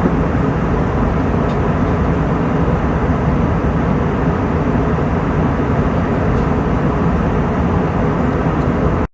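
Steady cabin noise of an Airbus A321-200 in flight: an even, unbroken hum of engines and rushing air, heaviest in the low end.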